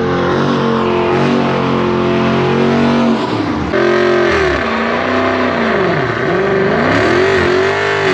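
Car engine held at high revs, then revved up and down repeatedly from a little under four seconds in, its pitch dipping and climbing several times.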